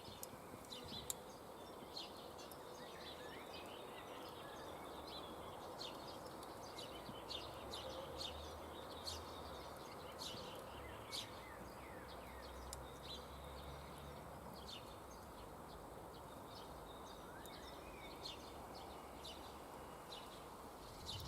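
Campfire crackling faintly, with many small sharp pops at irregular intervals over a steady low outdoor hush, and a few short bird chirps.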